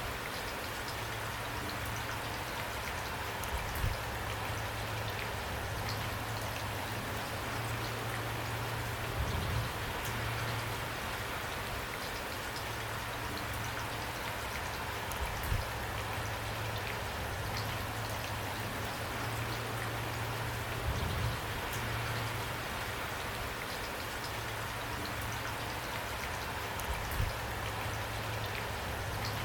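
Steady rain falling, with a brief louder patter of drops every five or six seconds.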